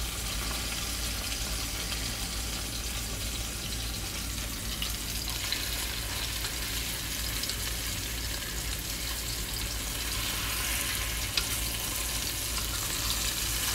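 Coated pork chops frying in hot oil in a nonstick skillet: a steady sizzle, with one light click about eleven seconds in.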